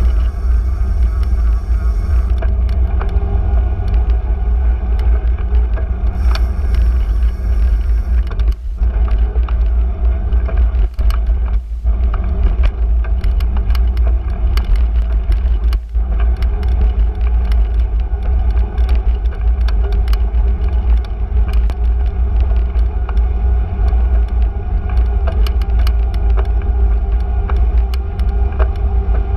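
Riding a bicycle through city streets: a steady low rumble of the ride, with many small clicks and rattles throughout.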